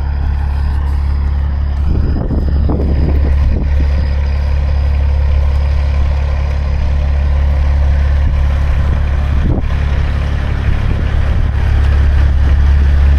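Heavy truck's diesel engine idling steadily, with a few light knocks and rattles about two seconds in and again near the end.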